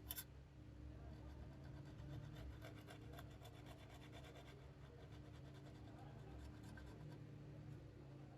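Faint scratching and light clicking of small hand tools working on a smartphone, with one sharper click at the start, over a low steady hum.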